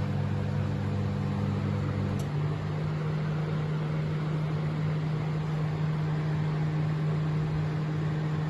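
Samsung 28-litre convection microwave oven running while cooking: a steady hum of its fan and motors with an even whir, the hum's tone shifting slightly about two seconds in.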